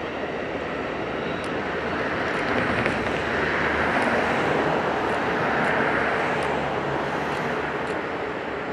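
Passenger train rolling past in the distance: a steady rumble of wheels on rails that swells about halfway through, then slowly fades.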